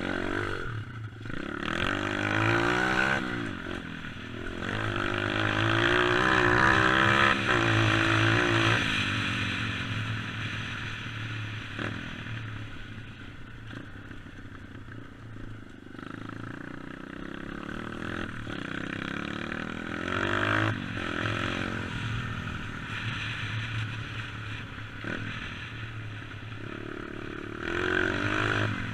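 Dirt bike engine revving up and easing off repeatedly under riding, its pitch climbing in surges, with the longest and loudest pull in the first third and shorter ones later.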